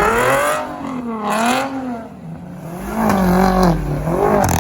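A car engine revving, its pitch climbing and falling several times over a few seconds.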